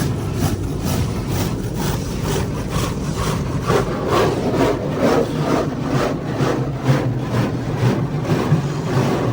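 Car wash machinery running: a steady low mechanical hum with rhythmic swishing about twice a second, like brushes or cloth strips rubbing over the car.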